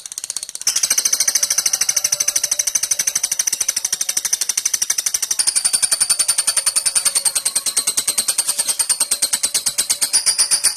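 Lovebird giving a long ngekek: a fast, unbroken run of sharp, high kek notes, rising a step in pitch about halfway through and again near the end.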